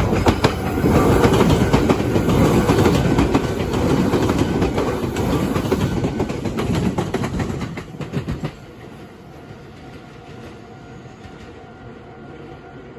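Red Meitetsu electric train passing close, its wheels clattering over the rail joints and junction points. About eight and a half seconds in, the sound drops suddenly to a much quieter, steady train rumble.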